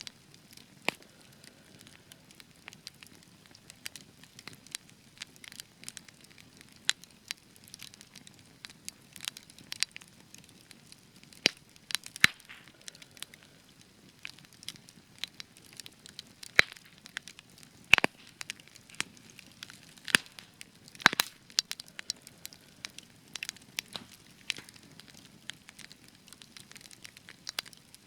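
Spruce wood campfire crackling, with irregular sharp pops and snaps over a low steady burning hiss; a few louder pops stand out, the loudest about 18 and 21 seconds in.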